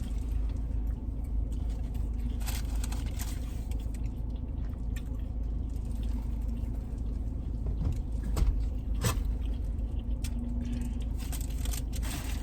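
Steady low hum of a car's air conditioning running inside the cabin, with a few soft clicks and rustles from people eating.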